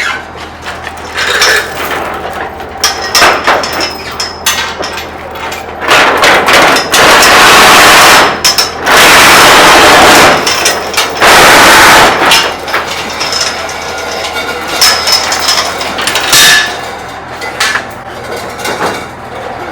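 Metal knocking and clanking from work on a truck cab and frame, with three loud, harsh bursts of noise, each a second or two long, about six to twelve seconds in.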